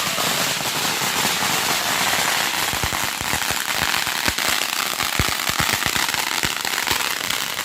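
Consumer fireworks crackling nonstop in a dense hiss of tiny crackles, with a rapid run of sharper pops from about three seconds in.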